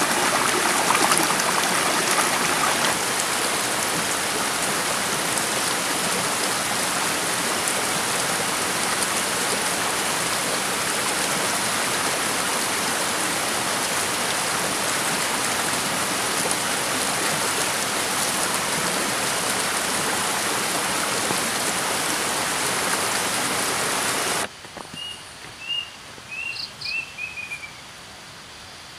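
Steady rush of water from a shallow, rocky forest stream. It cuts off abruptly near the end, leaving a much quieter forest background with a few short, falling bird chirps.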